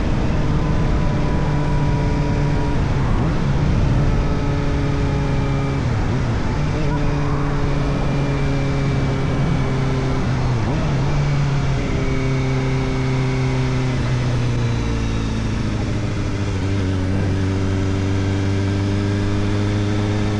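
Kawasaki Ninja ZX-4RR's 399 cc inline-four, breathing through an Arrow Indy Race Evo titanium exhaust with the dB killer fitted, heard on the move. The engine holds fairly steady revs with a few brief breaks in the note, then the revs climb steadily over the last few seconds.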